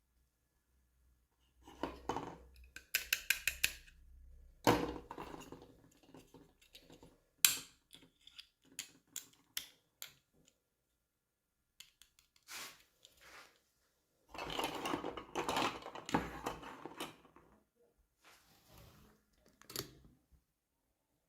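Toy packaging and small doll pieces being unboxed by hand: irregular bursts of rustling and sharp clicks, with a sharp click about seven and a half seconds in and a longer stretch of rustling a little after halfway.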